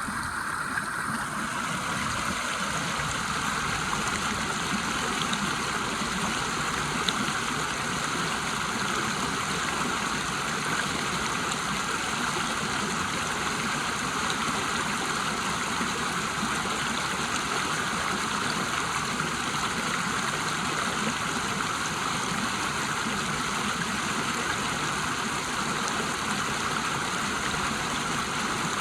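River water rushing over a waterfall: a steady, unbroken rush of water.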